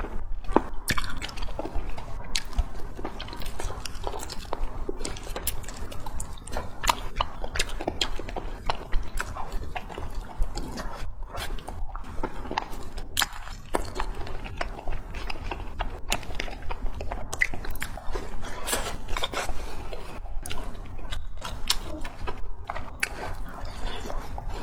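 Close-miked eating: wet chewing and mouth smacks, with many small irregular clicks throughout over a steady low hum.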